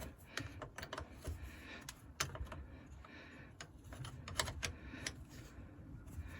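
Scattered, irregular light clicks and clinks of hand tools and parts being handled.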